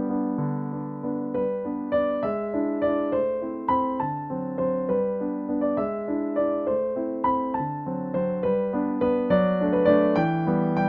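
Background music: piano or electric piano playing a gentle melody over chords.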